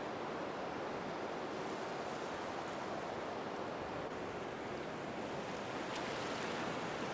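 Rain falling steadily, an even hiss without a break.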